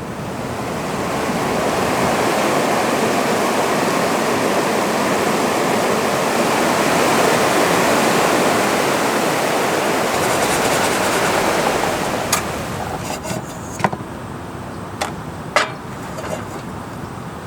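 Rushing water of a mountain river, a steady rush that swells up over the first couple of seconds and drops back about twelve seconds in. After that a few sharp clicks and taps stand out.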